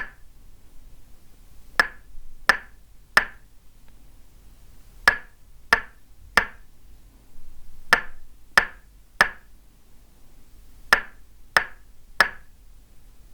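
Tok sen wooden mallet striking a wooden peg in sharp, woody knocks, in repeated groups of three with a short pause between groups.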